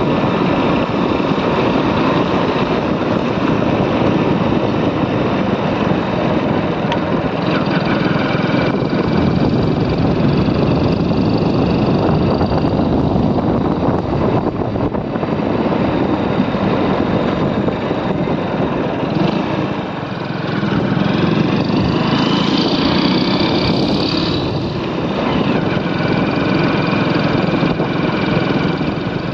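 Motorcycle running down a road, its engine noise mixed with wind rushing over the microphone, steady with a brief dip about two-thirds of the way through.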